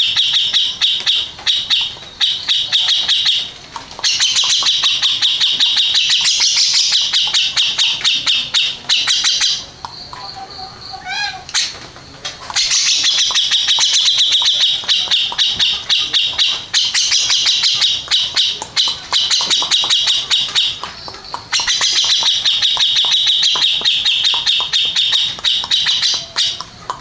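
Grey-cheeked bulbul (cucak jenggot) singing in long runs of fast, chattering high notes. The song breaks off twice briefly, and once for about two seconds near the middle, where a lower rising run of notes sounds instead.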